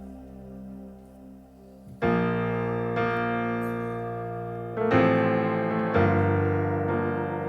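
Keyboard playing slow sustained chords: a soft held pad, then piano chords struck about two seconds in and again near the end, each ringing and fading.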